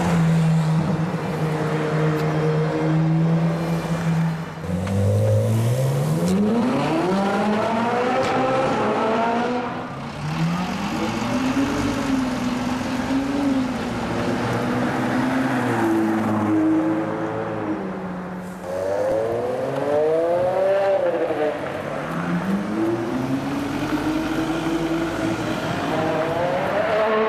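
Ferrari supercar engines in city traffic, among them an F355 and an F12 Berlinetta: a steady low engine note for the first few seconds, then a series of hard revs, the pitch climbing and dropping as the cars accelerate away.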